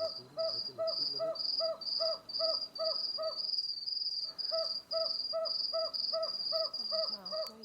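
Madagascar scops owl giving a long series of short, evenly spaced hoots, about two or three a second, with a brief break about halfway through. Crickets trill steadily behind it.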